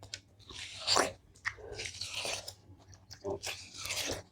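Close-up biting into and chewing watermelon: a run of crunches, the loudest about a second in.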